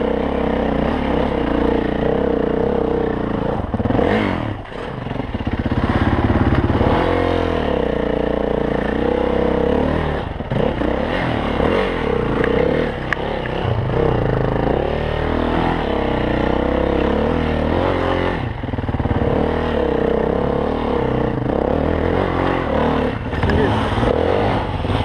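Dirt bike engine running hard on a trail, its pitch rising and falling as the throttle opens and closes, with rattles and scrapes from the bike over rough ground.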